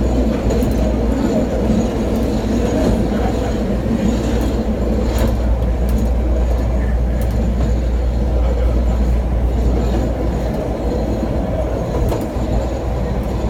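Chicago 'L' Green Line train running at speed, a steady rumble of wheels on rail with occasional faint clicks at uneven intervals.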